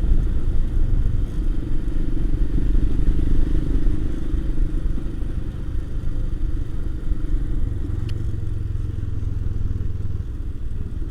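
Royal Enfield Himalayan's single-cylinder engine running steadily as the motorcycle is ridden along, a low rumble that eases slightly about four seconds in.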